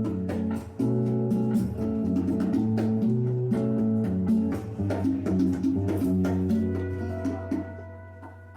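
Live instrumental music led by plucked and strummed guitars with bass, in a Cuban-styled arrangement, ending on a held chord that dies away near the end.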